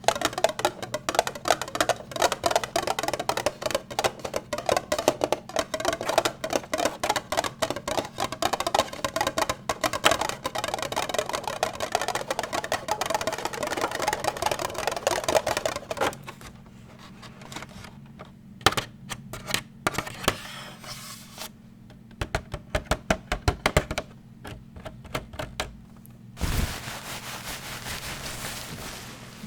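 Rapid ASMR tapping on hard objects, many taps a second, which thins out after about half way into scattered clusters of taps. Near the end a single knock is followed by a steady brushing or scratching hiss.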